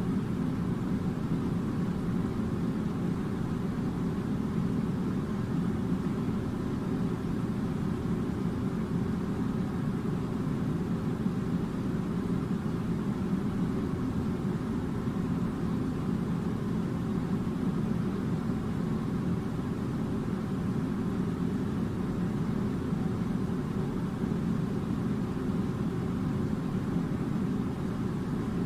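Air conditioner running with a steady, unchanging low rumble.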